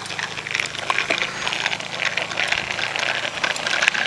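Children's bicycles rolling, with many irregular light rattles and clicks over a steady low hum.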